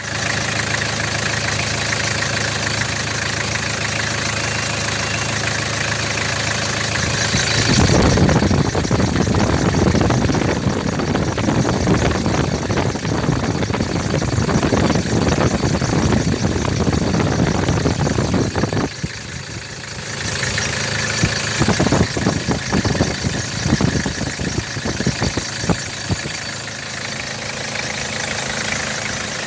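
Toyota Hilux 3.0-litre engine running at idle, steady for the first several seconds, then louder and rougher from about eight seconds in, with a brief dip near nineteen seconds and scattered sharp knocks after it.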